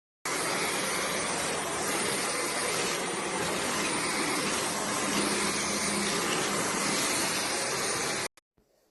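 Dyson V12 Origin cordless stick vacuum running steadily: a loud, even rush of air with a faint high-pitched whine. It starts abruptly and cuts off abruptly near the end.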